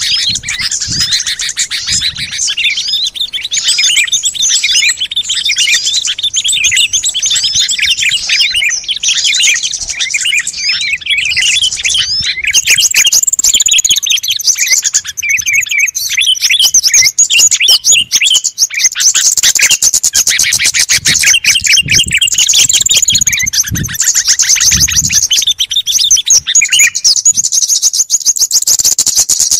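A dense mix of many small songbirds chirping and trilling rapidly at once, overlapping without pause. It is a bird-lure recording made to call small wild birds.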